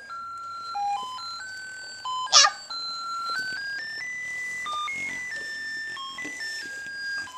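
A simple electronic melody of plain single tones, stepping from note to note like a ringtone or toy tune. About two and a half seconds in there is one brief, loud sound that stands above it.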